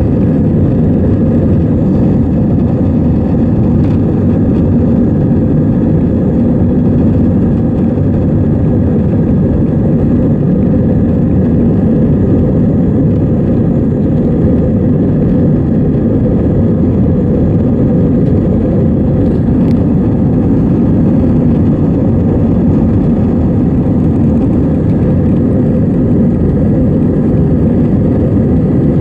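Airbus A320 jet engines and airflow heard from inside the cabin as a loud, steady low rumble, unchanging throughout.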